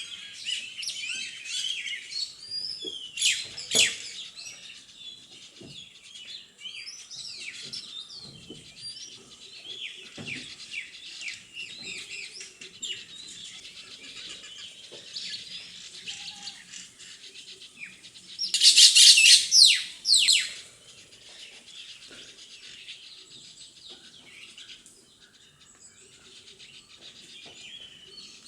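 Parrots chirping and calling continuously, with a much louder burst of calls about two-thirds of the way through.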